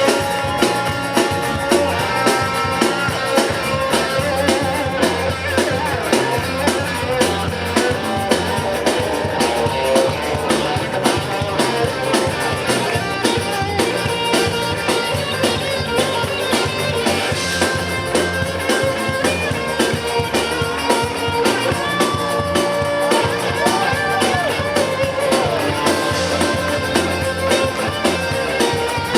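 Live band playing an instrumental guitar solo over bass and drums, with a steady beat.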